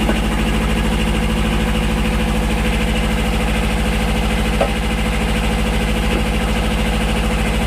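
Tractor engine running steadily at a constant speed, driving the hydraulic pump of a log splitter.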